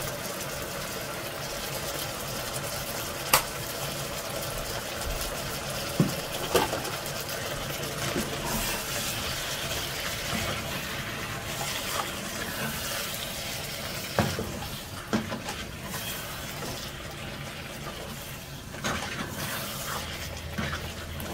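Meatballs, onions and peppers frying in a pot with a steady sizzle, while a wooden spoon stirs and scrapes through them, knocking sharply against the pot a few times.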